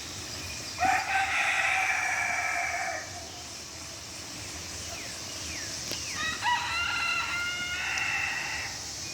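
A rooster crowing twice, each crow long and drawn out, the first about a second in and the second past the middle.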